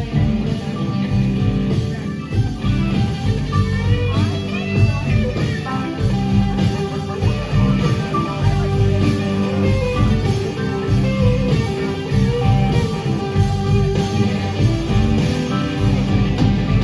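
Live rock band playing an instrumental break between verses, with guitar prominent over drums, bass and keys, and a lead line sliding in pitch.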